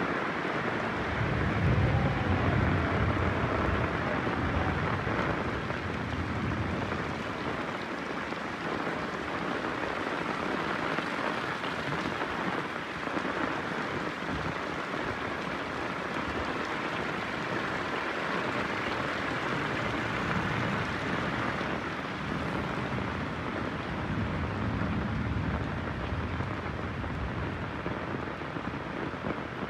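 Heavy rain falling steadily, with low thunder rumbling about a second in and again about two-thirds of the way through.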